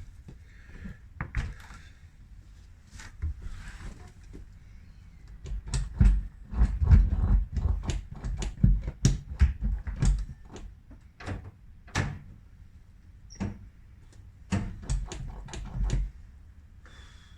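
Irregular clicks and knocks with low thuds, busiest and loudest in the middle, like things being handled and knocked against.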